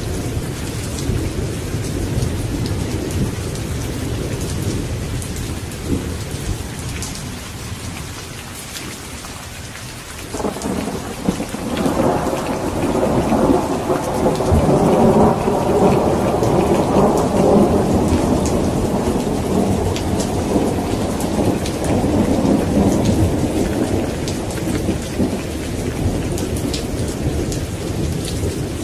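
Steady rain with a roll of thunder. It breaks about ten seconds in and rumbles loudly for over ten seconds before fading back under the rain.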